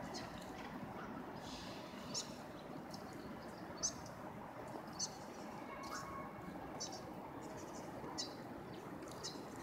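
Steady low background hum of an outdoor train station platform, with short, faint, high chirps every second or two.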